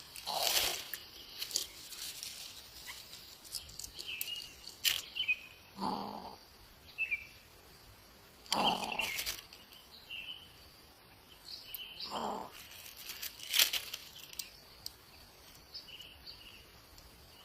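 Short high bird chirps repeated every second or two, among several louder rustling bursts and sharp clicks, the loudest click about thirteen seconds in.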